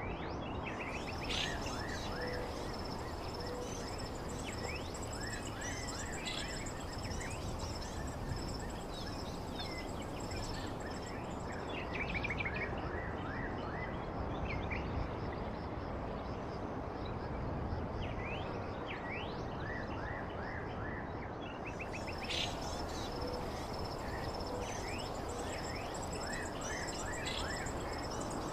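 Small birds chirping in repeated quick series of short notes over a steady background hiss, with a thin, steady high tone running underneath.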